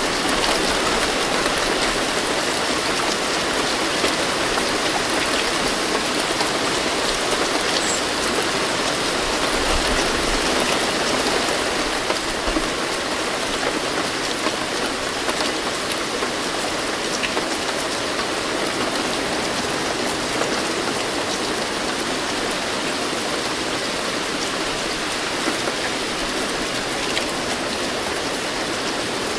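Steady rain falling, an even hiss of drops with faint individual patters.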